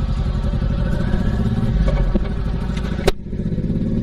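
Honda VTX1800C's V-twin engine running under way with a steady low pulse. A single sharp click about three seconds in, after which the sound dips briefly.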